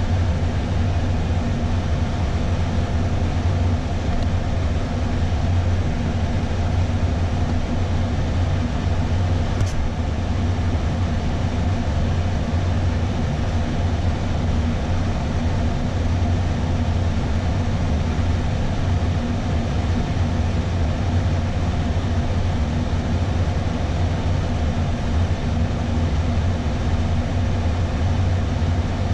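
Steady flight-deck noise of an Airbus A320 on approach: air rushing past the cockpit and the engines running as one constant low rumble. A faint brief tick comes about ten seconds in.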